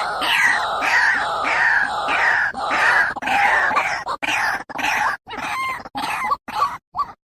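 White-breasted waterhen (ruak-ruak) calling over and over: loud falling notes about two a second. The notes grow shorter and more broken in the last couple of seconds.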